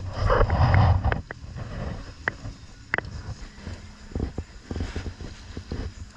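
Low rumbling wind buffeting on the microphone for about the first second, then scattered sharp clicks and knocks of gear on a fishing boat at sea.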